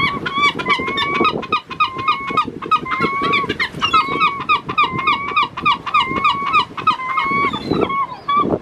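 A flock of birds calling, with many short overlapping honking calls coming several a second.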